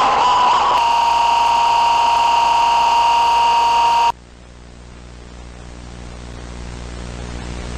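A loud, steady high-pitched whine over a hiss, which cuts off suddenly about four seconds in. A faint hiss then slowly swells.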